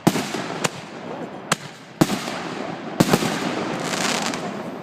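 Fireworks going off: about six sharp bangs, two of them in quick succession about three seconds in, followed by a dense crackling that lasts for over a second.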